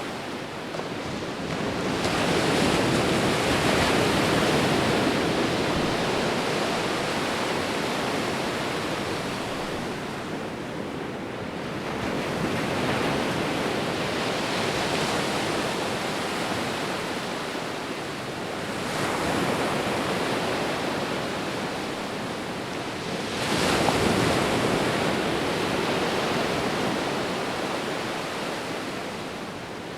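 Ocean waves breaking and washing ashore, the surf swelling and fading as each wave comes in, about four surges in the stretch, the strongest about three-quarters of the way through.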